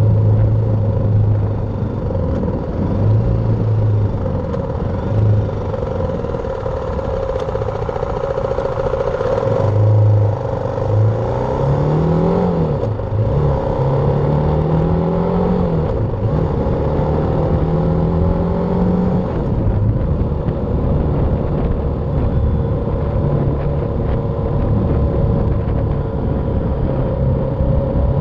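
BMW G310R's single-cylinder engine running on the move over steady riding noise. Midway it accelerates through a few gear changes, its pitch rising and then dropping at each shift.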